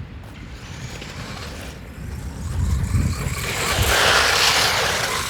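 Small 1/14-scale RC monster truck with a brushed electric motor driving across grass. Its motor and drivetrain run quietly at first, then grow much louder about two and a half seconds in as it speeds up with a rushing hiss.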